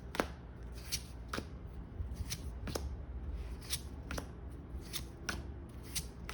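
Pokémon trading cards being flipped through one at a time, a short crisp snap about twice a second.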